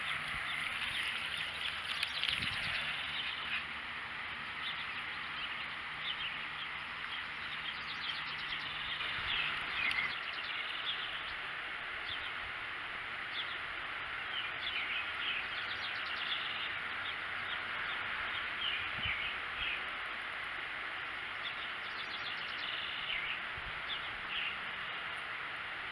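Small birds chirping every few seconds over a steady outdoor background hiss.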